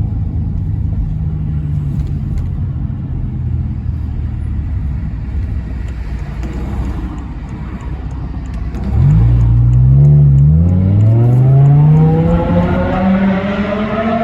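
BMW M6 E64's 5.0-litre V10 running at a steady low drone, then about nine seconds in it opens up and the revs climb hard under acceleration, dropping briefly at a gear change before climbing again.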